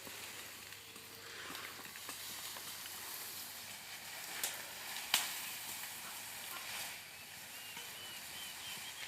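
Faint, steady outdoor hiss, with two sharp clicks about four and a half and five seconds in and a short run of high, quick chirps near the end.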